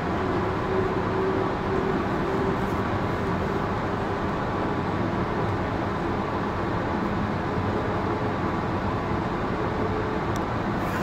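Sydney Trains Tangara electric train running along the line, heard from inside its guard's cab: a steady rolling rumble with a faint steady hum over it.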